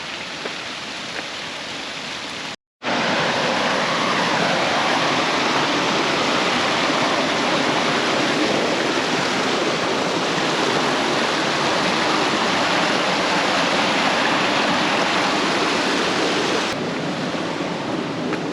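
Mountain river rushing over rocks, a steady rush of water. It drops out for a split second about two and a half seconds in, then comes back louder.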